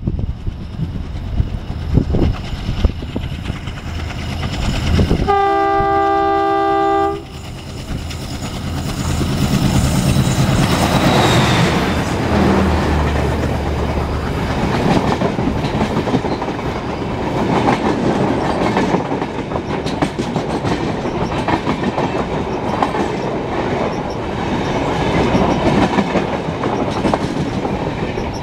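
WDP 3A diesel locomotive sounds its multi-tone horn for about two seconds, then its engine rumbles past. This is followed by the steady clickety-clack of the Rajdhani Express coaches rolling by.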